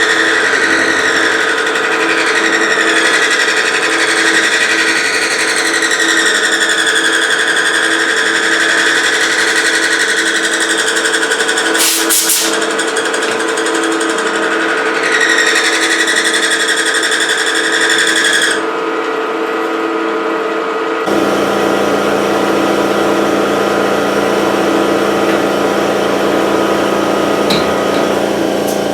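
Milling machine cutting metal with an end mill, hollowing out a block: a steady machining whine with a wavering high squeal from the cutter. A brief sharp rasp comes about twelve seconds in. About two-thirds through, the squeal drops out and a lower, steady hum takes over.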